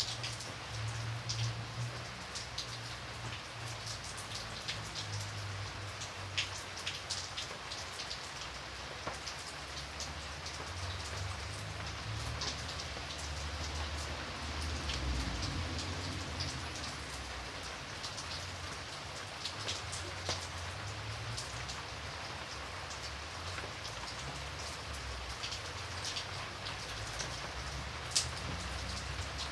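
Steady rain with single drops ticking and pattering against a window, over a low rumble.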